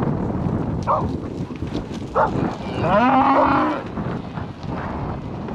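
Cows mooing while being driven, with short calls in the first couple of seconds and one longer, louder moo about three seconds in.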